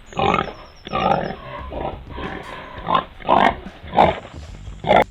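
Domestic pig grunting: a run of short, rough grunts coming irregularly, about one or two a second.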